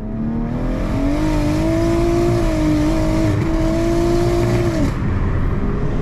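BMW M140i's built three-litre B58 straight-six with a big Garrett G35 turbo, heard from inside the cabin running hard. The engine note climbs in pitch over the first second or so and holds high. About five seconds in it drops away sharply into a low rumble.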